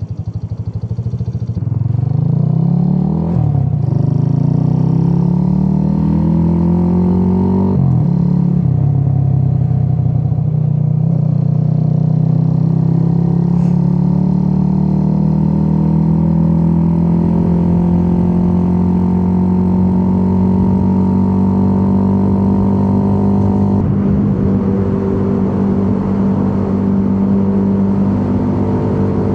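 Suzuki YB1 small motorcycle engine accelerating, its pitch climbing and dropping at two gear changes about three and eight seconds in, then running at a steady cruise with a slowly rising pitch.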